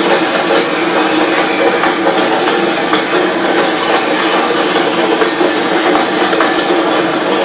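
Freight train's mineral hopper wagons rolling past at close range: a steady, loud noise of wheels running on the rails with rattling from the cars.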